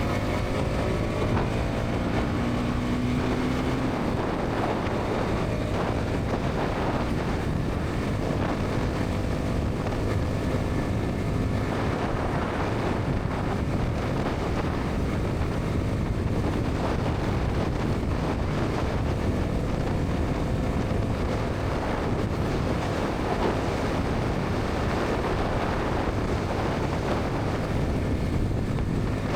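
Bajaj Pulsar NS 200's single-cylinder engine running at highway speed under heavy wind rush on the microphone. The engine note rises in the first couple of seconds, then is mostly buried under the steady wind.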